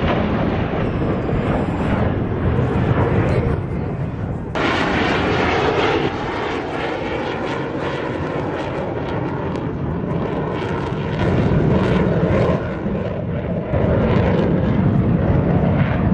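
Jet aircraft engine noise: a loud, steady rushing roar with sudden shifts in level and tone, the sharpest about four and a half seconds in.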